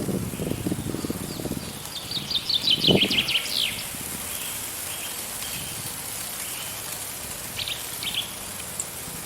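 Wind blowing in gusts with a steady hiss. About two seconds in, a songbird sings a quick run of falling chirped notes, and a few short chirps follow near the end.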